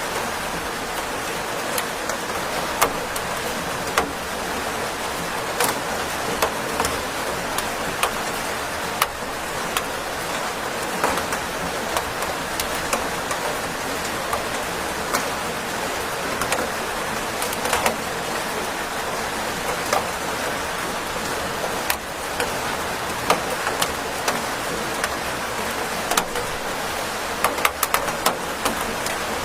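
Steady rain falling: an even hiss with many sharp taps of single drops striking a surface scattered through it.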